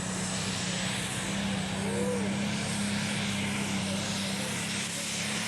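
Heavily modified 5.1-litre IHC D310 pulling tractor's diesel engine running flat out under full load as it drags the weight-transfer sled down the track, a loud steady drone.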